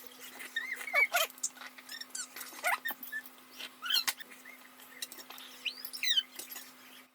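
Birds chirping and calling: many short, sweeping, whistle-like notes at irregular intervals, over a faint steady hum.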